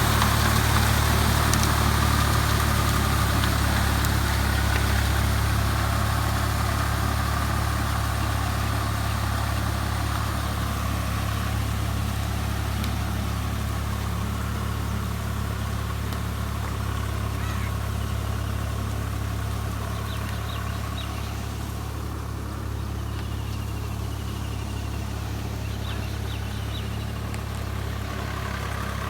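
Swaraj 744 FE tractor's three-cylinder diesel engine running steadily at low revs, slowly getting quieter.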